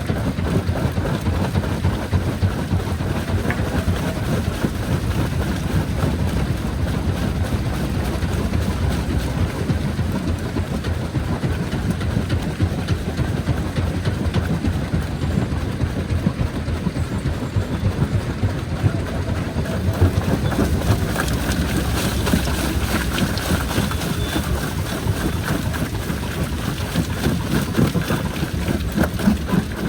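Jaw crusher running under load: a steady heavy rumble with many small knocks and cracks as rock is broken between the jaws.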